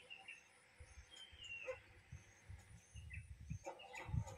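Faint outdoor ambience: small birds chirping, one giving a short falling call, over an irregular low rumble like wind on the microphone.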